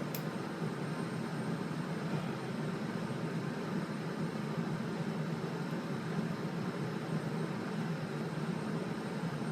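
Steady droning hum with a hiss, from a machine running in the background, with a faint click right at the start.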